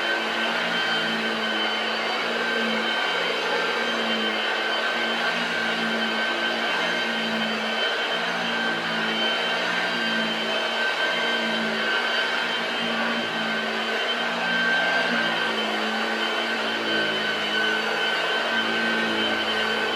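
Hoover 1348 'Junior' lightweight upright vacuum cleaner running steadily, its motor giving a constant high whine over the rush of air.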